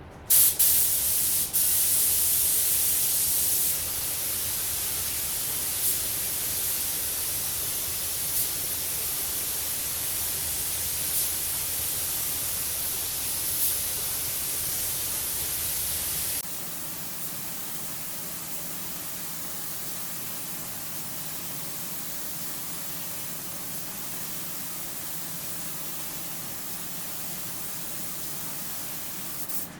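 Paint spray gun hissing steadily as it lays down a coat of clear, starting abruptly and loudest for the first few seconds. The hiss drops to a lower, steadier level about halfway through and cuts off just before the end.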